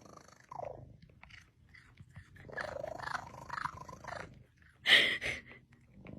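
A cat purring steadily, with short pitched vocal sounds over it and one loud, brief cry about five seconds in.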